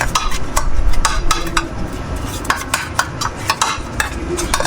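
A run of irregular clicks and clinks of hard objects being handled, over a low steady background hum.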